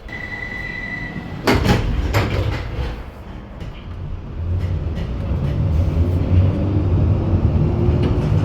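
Bakerloo line 1972 Stock tube train departing. A steady door-closing warning tone sounds for about a second and a half, the doors shut with two heavy knocks, and the traction motors then hum and whine, rising slowly in pitch as the train pulls away.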